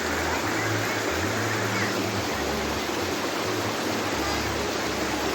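Steady rushing of river water, with an uneven low rumble underneath.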